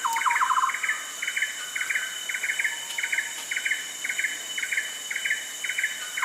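Rainforest ambience: a bird repeats short, sharp double-note chirps about twice a second over a steady high insect drone. Right at the start a second, lower call runs a quick series of notes.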